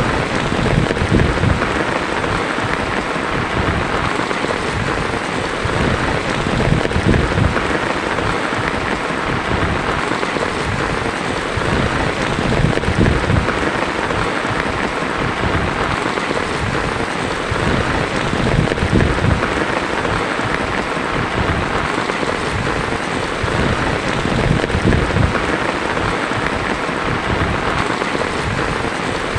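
Heavy rain falling steadily on a tin roof, with low rolls of thunder rumbling underneath.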